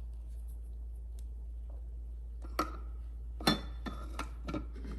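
Metal spoon clinking against a cup while froth is spooned in: a light tap, then one sharper clink about three and a half seconds in that rings briefly, followed by a couple of lighter taps, over a steady low hum.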